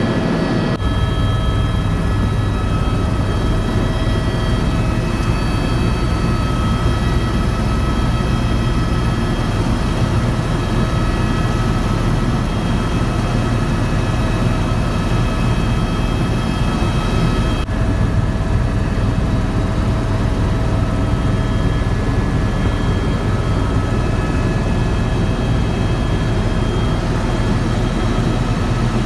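Airbus EC130 EcoStar helicopter in flight: steady, loud rotor thrum and turbine whine.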